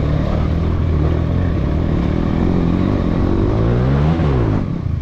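Motorcycle engine running on a trail ride; its revs climb to a peak about four seconds in, then drop away.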